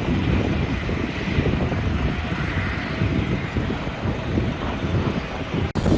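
Aircraft engines running: a steady, loud rumble with a hiss over it. It breaks off abruptly near the end at an edit cut.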